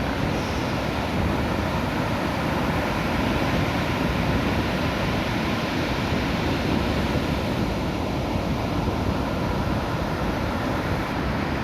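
Ocean surf breaking and washing on a beach, a steady wash of noise, with wind blowing across the phone's microphone.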